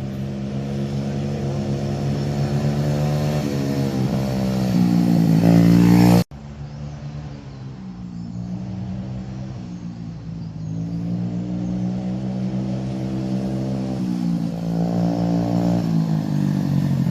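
Small 50cc dirtbike engine running, its pitch climbing as it is revved up, then an abrupt cut about six seconds in, after which it runs on and climbs again near the end.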